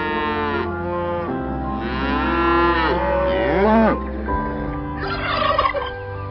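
Holstein cattle mooing: a short moo at the start, then a longer moo about two seconds in whose pitch swoops at the end. Near the end comes a brief gobble from white domestic turkeys.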